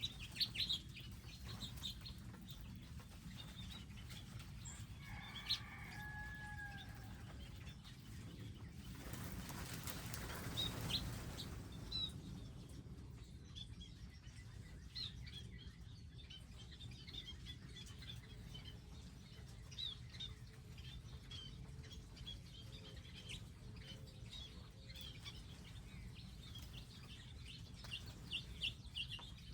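Small wild birds chirping with many short, high calls. A lower, longer call comes about five seconds in, and a burst of wing flapping comes about ten seconds in.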